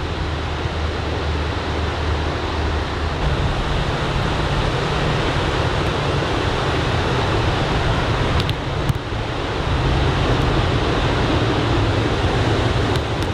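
Ocean surf from an incoming typhoon swell rushing and breaking steadily on a sandy beach, with wind buffeting the microphone as a low rumble. It grows a little louder about ten seconds in.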